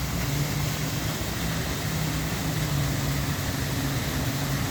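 Steady rush of water from a fountain's falling water, with a low, slightly wavering mechanical hum underneath.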